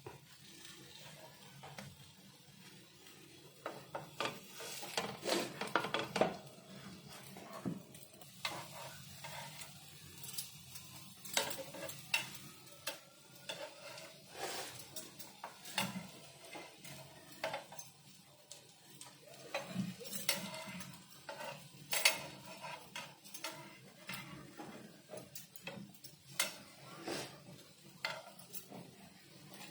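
Spatula scraping and knocking on a pan at irregular intervals as corn-and-potato tikkis are turned over to roast the second side, with sizzling underneath.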